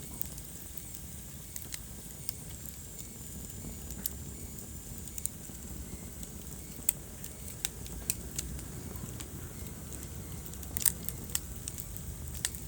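Wood fire burning in a fireplace: a steady low rumble of the flames with irregular sharp crackles and pops, a few louder pops close together about eleven seconds in.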